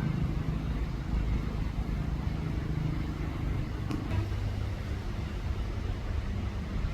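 Steady low rumble of a vehicle running, with a faint low hum of a few tones; a deeper tone comes in about four seconds in, just after a faint click.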